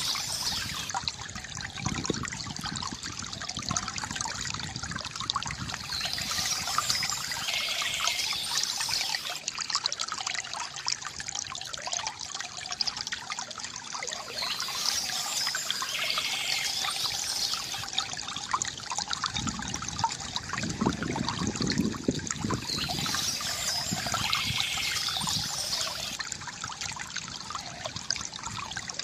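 Water trickling and splashing steadily from a bamboo fountain, with birds chirping in short spells that come back about every eight seconds.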